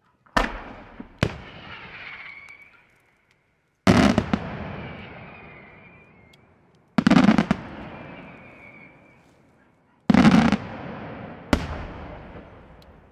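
Daytime aerial fireworks shells bursting: loud bangs in four groups about three seconds apart, some as rapid clusters of reports, each trailing off in a long fading rumble.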